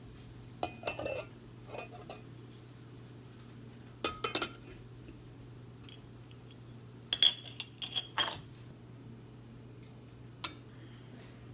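Clinking and clattering of hard objects, likely kitchenware being handled, in several short bursts. The busiest and loudest burst, about seven to eight seconds in, has brief ringing tones. A single click comes near the end.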